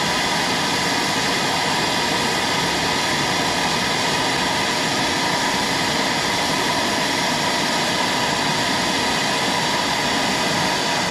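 Handheld gas torch flame roaring steadily while heating a broken-off starter mounting bolt to free it; the roar cuts off suddenly at the end.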